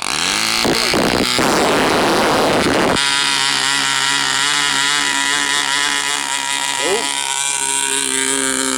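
Enya 15 III two-stroke model glow engine firing up: it catches suddenly, runs raggedly for about three seconds, then settles into a steady, even run.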